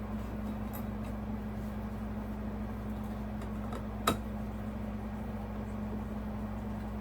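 Steady low hum of room background, with a few faint ticks and one sharp click about four seconds in, from handling at the ceiling fan's mounting bracket.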